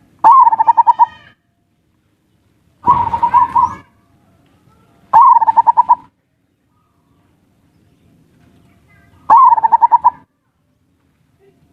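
Zebra dove (perkutut) cooing: four rolling coos, each a fast run of short pulsed notes about a second long, spaced a few seconds apart.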